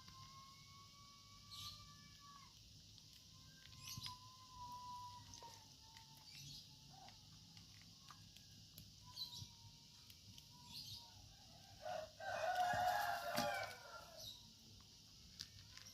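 Birds calling: short high chirps repeat throughout, with long whistled notes early on. A rooster crows about twelve seconds in, the loudest sound.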